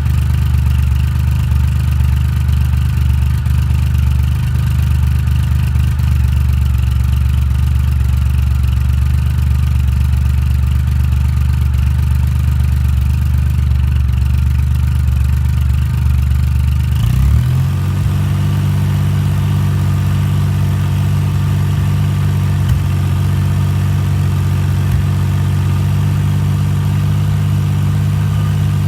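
Triumph Rocket 3's inline three-cylinder engine idling through an aftermarket Delkevic oval 350 silencer on the stock header. About two-thirds of the way through there is a brief blip, after which it keeps idling steadily at a slightly higher pitch.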